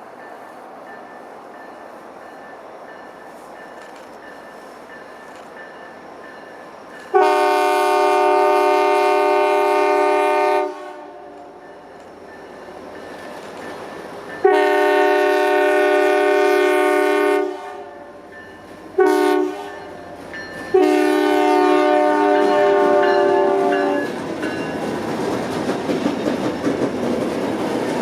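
Alaska Railroad locomotive's multi-chime air horn sounding the grade-crossing signal, long, long, short, long, as the train approaches. Near the end, the rumble and clatter of the train on the rails rises as it arrives.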